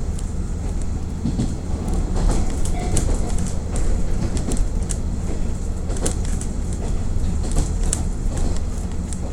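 KiHa 48 diesel railcar heard from inside the car: the diesel engine runs steadily with a low hum while the wheels click over the rail joints.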